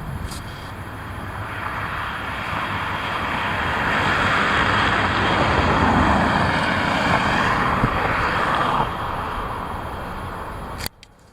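A vehicle passing by, its rushing noise swelling over several seconds and then fading, over wind buffeting the microphone. The sound cuts off abruptly near the end.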